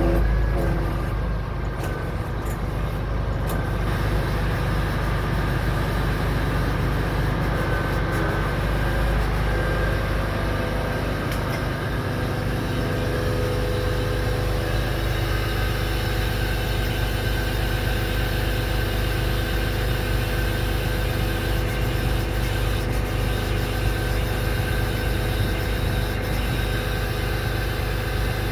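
Scania R500 truck's V8 diesel engine running steadily with a low hum.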